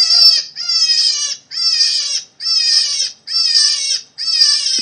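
Rabbit squealing: a row of shrill, high-pitched calls, about six in quick succession, each dropping slightly in pitch, separated by short silent gaps.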